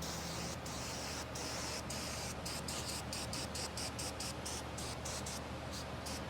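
Aerosol can of brake cleaner spraying, a hiss that comes in a few longer bursts and then breaks into a rapid string of short bursts.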